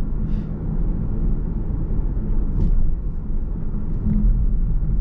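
Steady low rumble of a car's engine and road noise heard from inside the cabin while driving, with a few faint light ticks.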